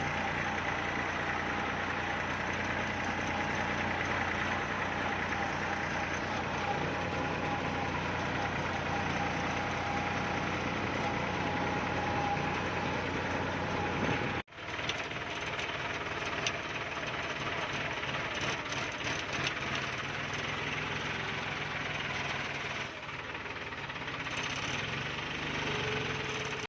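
Tractor engine running steadily, with a brief break about halfway through before the running continues.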